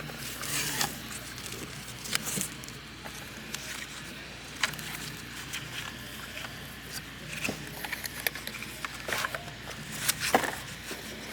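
Aerial firework shells being handled and dropped into mortar tubes: scattered short knocks and paper rustles at irregular intervals, with a few sharper knocks near the end.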